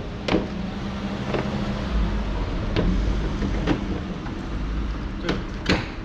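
Sharp knocks and clicks, about six spread over a few seconds, as the Renault Zoe's front bumper is fitted back onto the car, over a steady low hum.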